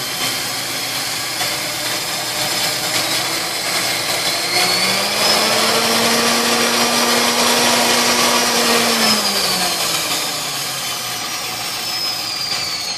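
Restored Hamilton Beach Model G stand mixer running, its motor driving the beaters. About four and a half seconds in the pitch rises and holds higher, then drops back down near the ten-second mark.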